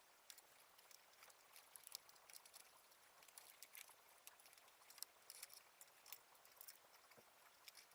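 Faint, irregular light clicks and taps, as of small parts being handled, over a low hiss.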